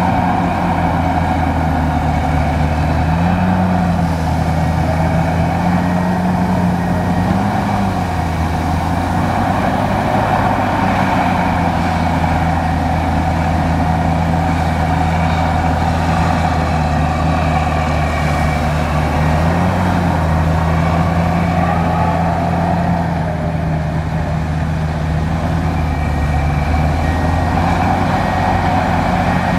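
Bulldozer's heavy diesel engine running steadily under working load, its pitch shifting a little a few times as it works.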